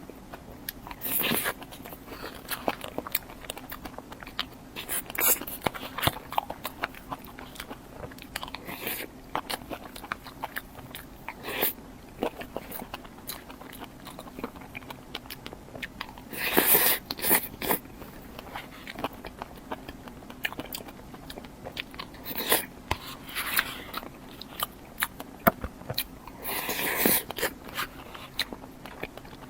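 Close-miked biting and chewing of a dessert, with a louder crunchy bite every few seconds and small mouth clicks in between.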